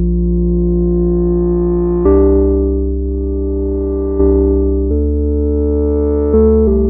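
Moog Subharmonicon analog synthesizer playing a slow ambient patch: sustained chords over a deep bass, the notes stepping to new pitches about every two seconds, each change opening with a soft swell.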